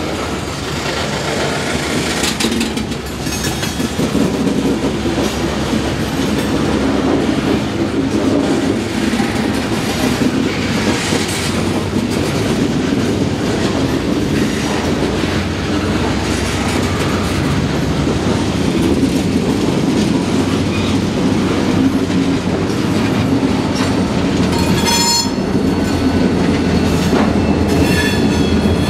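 Freight train of boxcars rolling slowly through a grade crossing, wheels clicking over rail joints with a steady rumble. A high metallic squeal from the wheels comes in about three-quarters of the way through, and the train's diesel locomotive draws level near the end.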